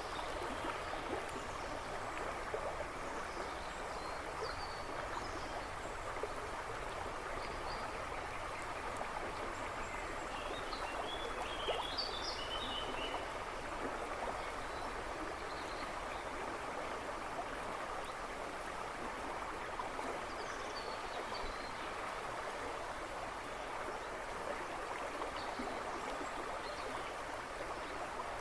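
A river babbling and rushing steadily over stones, with a few birds chirping in the background, a short burst of chirps about halfway through.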